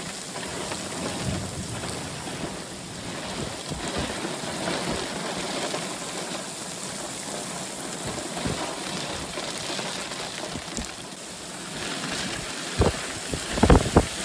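Heavy rain pouring steadily in a violent thunderstorm. Near the end, strong gusts of wind start buffeting the microphone.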